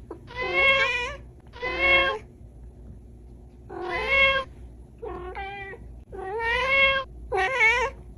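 Small cat meowing repeatedly: six separate meows, each under a second long, with short pauses between them.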